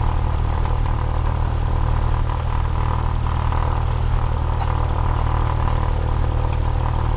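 Cessna 172R's four-cylinder Lycoming piston engine and propeller running steadily, a constant low drone with no change in pitch.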